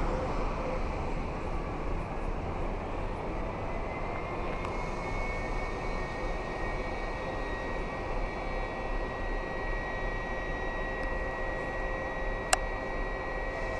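Railway train moving at a station: a steady rumbling noise with a thin, high squeal that comes in about five seconds in and holds. A single sharp click near the end.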